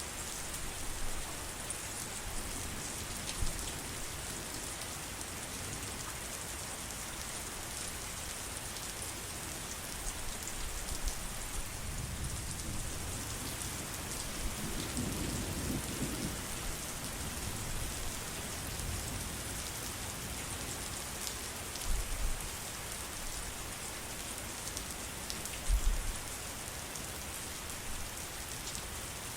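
Steady heavy rain falling, with a low rumble of thunder rising and fading about halfway through, and two brief low thumps later on.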